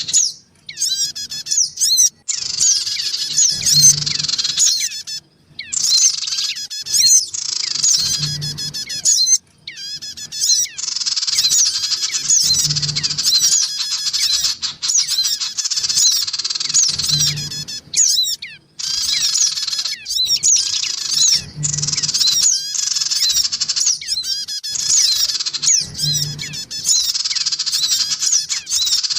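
Lure recording of sogon (ciblek gunung) songbirds calling noisily: rapid, overlapping high chirps and squawks, with the calls of young birds mixed in. The track loops in spliced segments that start and stop abruptly, and a faint low pulse recurs about every four and a half seconds.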